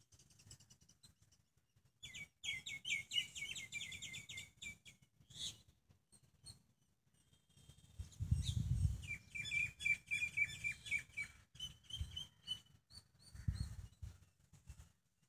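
A songbird singing two fast trilled phrases, each a few seconds long, followed by a few short chirps. A couple of low thumps are heard in between.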